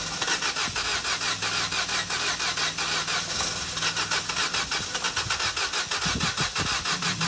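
Corsa E petrol engine cranking over on its starter motor in an even beat of about five pulses a second, being fed aerosol starting fluid through the throttle body to get it to fire.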